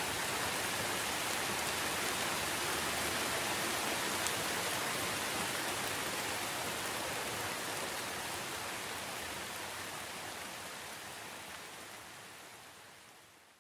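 Steady heavy rain, an even hiss of falling water, fading out over the last few seconds.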